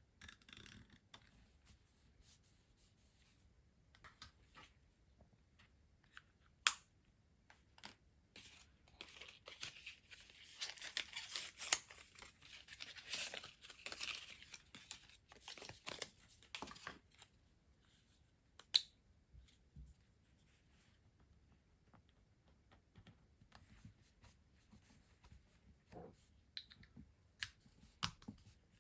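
Stationery packaging being handled and torn open by hand: crinkling and tearing through the middle, with scattered light taps and a few sharp clicks.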